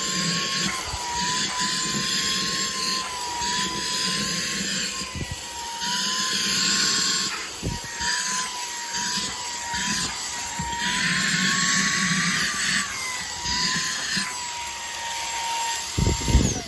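Cordless handheld vacuum running on its highest suction setting: a steady high motor whine over rushing air, its pitch dipping slightly now and then under load. It is switched off right at the end, and the whine begins to wind down.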